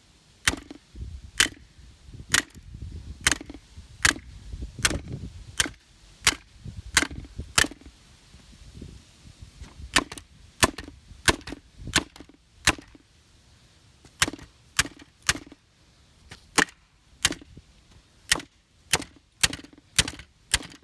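A toy RC car being hit again and again with a large metal bolt, about two dozen sharp strikes at an uneven pace of roughly one or two a second, with two short pauses. The car is holding up under the blows.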